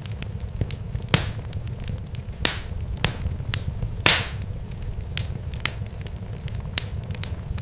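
Irregular sharp crackles and pops, a few louder snaps with a short hiss after them, over a steady low rumble.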